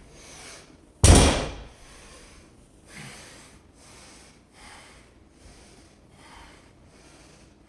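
A loaded 225 lb barbell set down hard on the floor about a second in, one heavy thud between deadlift reps, followed by fainter knocks and shuffling.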